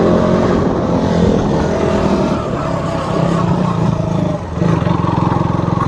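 Single-cylinder motorcycle engine running under way. The note holds steady, dips briefly about four and a half seconds in, then picks up again.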